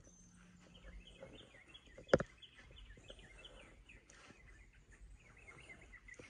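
Birds chirping in quick short notes, with one sharp knock about two seconds in.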